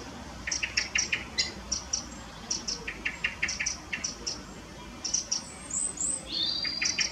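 Small birds chirping, short high chirps in quick clusters of two to four, with a brief higher whistled call near the end.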